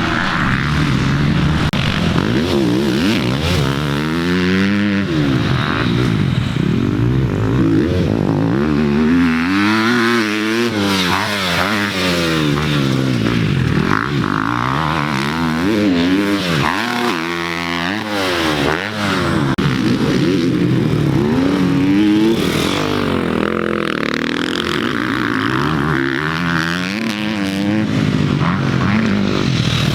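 A 450 dirt bike's engine revving hard on the track, its pitch climbing and dropping again and again as the throttle is opened and shut.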